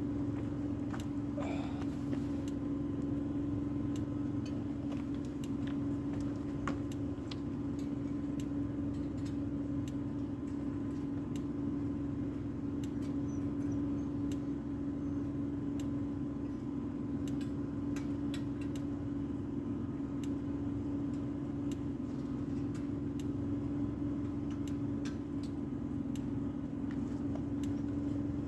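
A motor running steadily with an unchanging hum, and scattered light clicks and taps over it.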